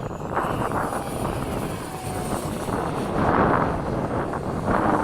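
Electric ducted fan of a 70 mm RC F/A-18 jet in flight, a rushing sound with a faint high whine that rises then holds, swelling louder about three seconds in, over wind noise on the microphone.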